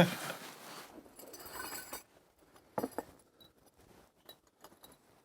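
Faint rustling, then a sharper knock a little before three seconds in, followed by several small light clicks.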